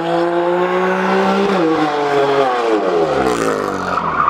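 BMW's engine held at high revs while it spins donuts with its rear tyres smoking, over tyre squeal. The revs hold steady, fall away from about one and a half seconds in, then climb again near the end.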